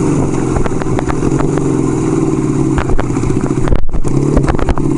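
1975 Kawasaki KZ400's parallel-twin engine running on the road, with scattered clicks and clatter over it; the sound cuts out for an instant near the end.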